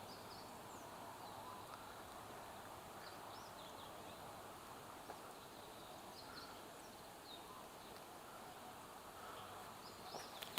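Faint outdoor ambience: a steady soft hiss with scattered short, high bird chirps throughout.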